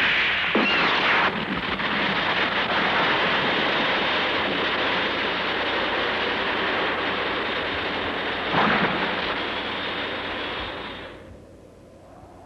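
A loud rushing-noise sound effect in a monster battle. It starts suddenly, swells again about eight and a half seconds in, and dies away near the end.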